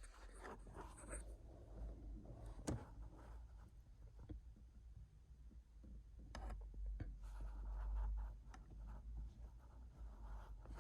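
Faint rubbing and rustling with a few sharp clicks over a low rumble, the sound of something being handled close to the microphone.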